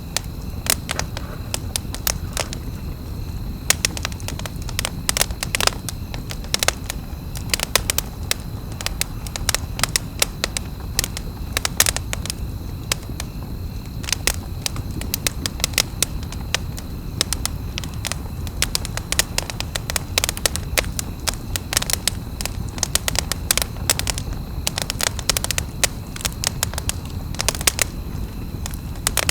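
Wood campfire crackling and popping, with many sharp, irregular pops over a steady low rumble of the burning fire.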